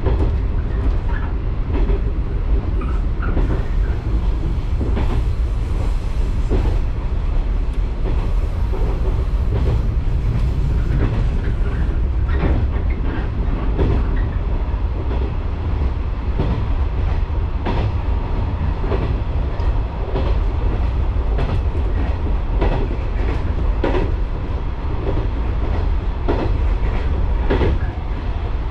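A Shinano Railway local train running along the Kita-Shinano Line, heard from inside the car. There is a steady low rumble of wheels on rail, with frequent irregular clacks as the wheels pass over rail joints.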